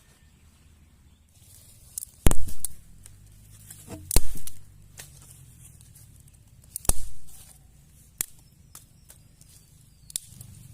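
Three loud, sharp knocks a couple of seconds apart, then a few fainter clicks, over a low steady rumble.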